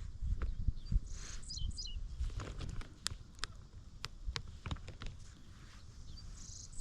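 A bird calling a quick falling run of high chirps, once a little over a second in and again at the very end. Scattered light clicks and a low rumble run underneath.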